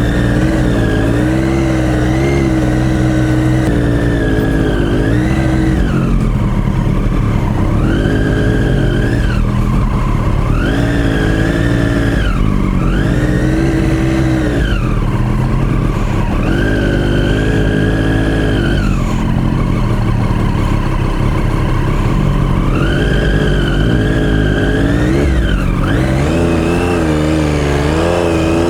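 Motorcycle engine revving as it rides, the pitch climbing, holding and falling again over and over as the throttle is opened and shut, with a few longer held stretches near the middle and end.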